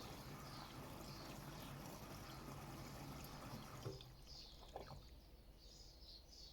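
Bosch EcoSilence Drive washing machine during a 90°C boil wash: water sloshing and trickling in the drum over a low hum. The hum stops about four seconds in, with a couple of soft clicks, as the drum pauses and things go quieter.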